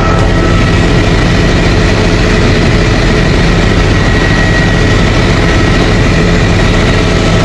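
Helicopter heard from inside the cabin in flight: a loud, steady drone of engine and rotor, with a couple of thin steady high whines over it.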